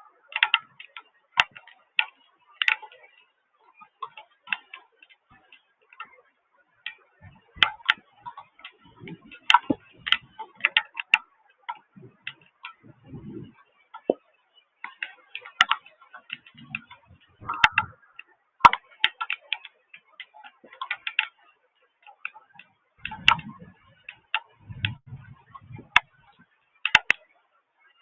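Irregular tapping and ticking of raindrops or drips hitting a hard surface close to the microphone, with a few dull low thuds mixed in.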